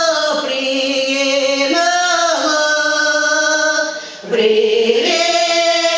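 Choir singing a Ukrainian folk song in harmony, drawing out long held notes. The voices drop off briefly about four seconds in and come back in on a new chord.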